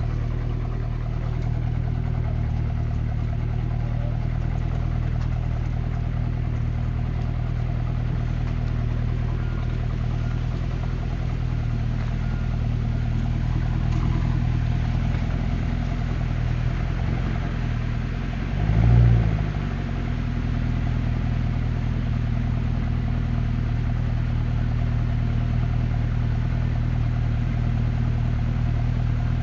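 Mercedes-Benz W204 C63 AMG's 6.2-litre V8 idling steadily, with one short rev about two-thirds of the way through.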